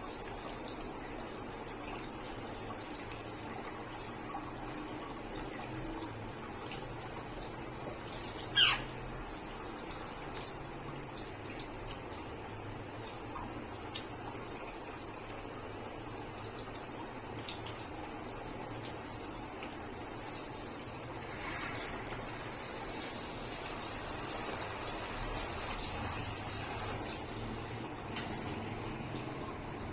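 Water running steadily, with scattered small clicks and one short whistle falling in pitch about nine seconds in.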